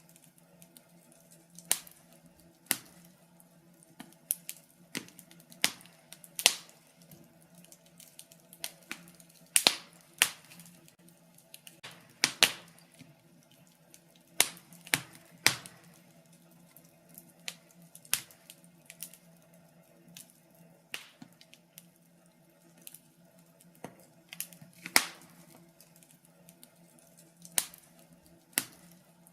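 Fire in a fireplace crackling, with irregular sharp pops and snaps, a few of them much louder than the rest. A faint steady low hum runs underneath.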